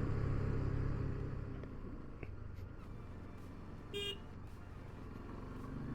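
KTM 390 Adventure's single-cylinder engine running on the move, easing off over the first few seconds and picking up again near the end. A short horn beep sounds about four seconds in.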